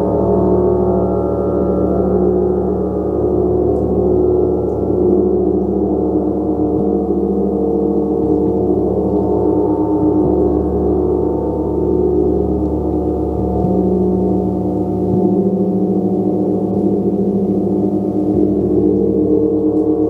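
Gong played continuously: a sustained wash of many overlapping tones that swells gently, with its low notes shifting several times.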